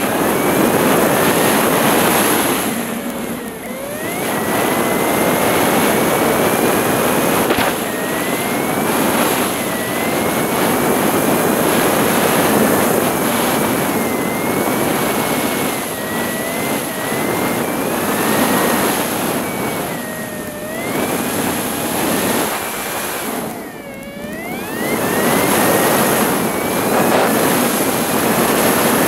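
Wind rushing over a GoPro microphone on a moving motorcycle, with the engine's tone wandering up and down beneath it. The rush eases briefly twice, about three seconds in and again near the end.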